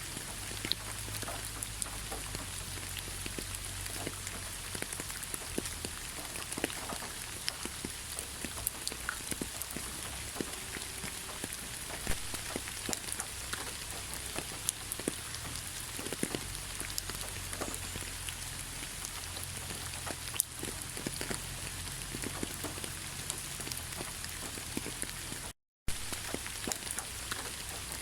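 Heavy rain falling steadily: a dense, even hiss with many individual drops tapping out of it. A split-second gap of silence breaks it near the end.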